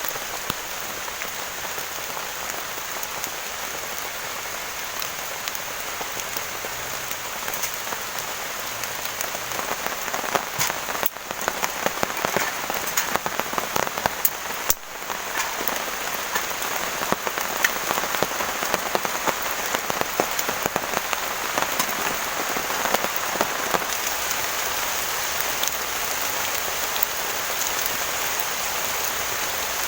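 Heavy rain falling steadily, with many sharp individual drop hits. It grows heavier about a third of the way in.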